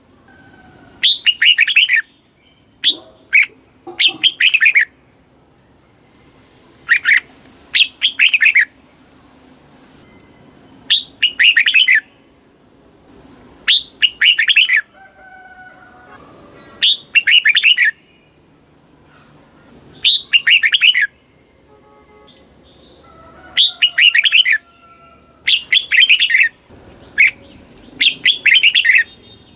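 Red-whiskered bulbul singing: loud, quick warbled song phrases about a second long, repeated every two to three seconds, with fainter bird calls in the pauses.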